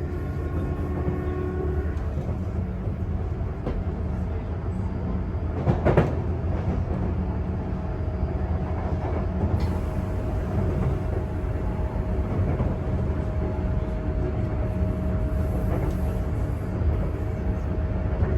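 Running sound inside a motor car of a Sotetsu 8000 series electric train with renewed traction equipment, rolling along the line: a steady low rumble of wheels and running gear, with a pitched whine that fades out about two seconds in. A single sharp clack comes near six seconds, and a faint steady tone sets in about nine seconds in.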